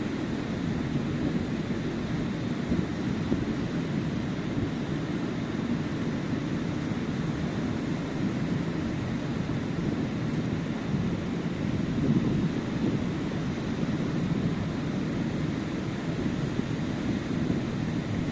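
Sea surf washing onto a sandy beach: a steady, deep rush of breaking waves that swells and eases gently.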